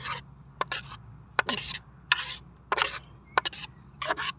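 Repeated short scrapes of a tool digging thick, grease-like oil sludge out of an engine's baffled sump, a stroke every half second or so.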